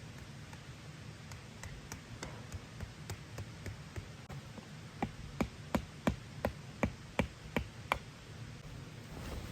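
A run of short, evenly spaced taps, about three a second, faint at first and louder about halfway through, over a steady low hum.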